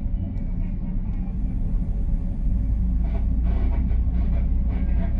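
Commuter train starting to pull away, heard from inside the rear cab car: a steady low rumble that grows louder about two and a half seconds in, with a faint high hiss.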